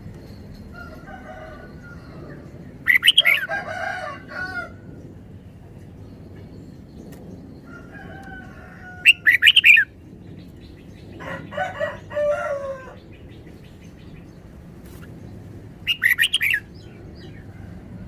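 Red-whiskered bulbul singing in short, quick phrases, with three loud bursts of notes and softer warbled phrases between them.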